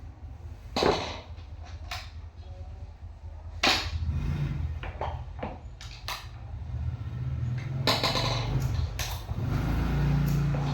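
Scattered sharp knocks and clicks of office chair parts being handled and fitted together, the loudest about a second in and near four seconds, over a steady low hum.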